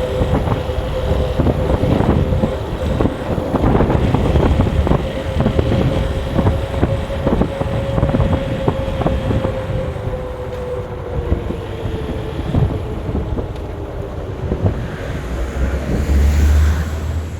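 Road vehicle driving, with a steady whine that eases down in pitch about ten seconds in and fades, many rattling knocks, and wind on the microphone. A low rumble swells near the end.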